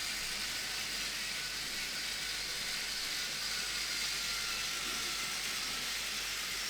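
Battery-powered Plarail toy train running along plastic track: a steady motor whir with the hiss of the wheels.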